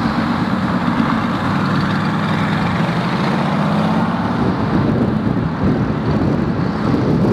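A car's engine running at low revs: a steady low engine note that rises and falls slightly in pitch.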